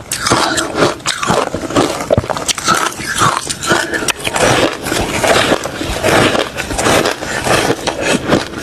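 Close-up crunching of refrozen crushed ice and shaved ice being bitten and chewed: a dense, irregular run of loud cracks and crackles with no pause.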